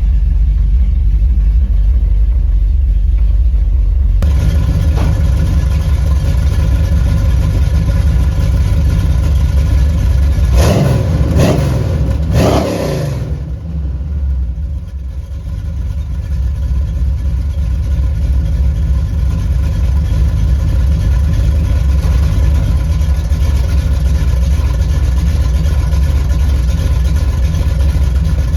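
383 stroker small-block Chevrolet V8 idling through Flowmaster Super 44 mufflers on a true dual exhaust, a deep steady rumble. About ten seconds in, the throttle is blipped three times in quick succession and the revs rise and fall back to idle.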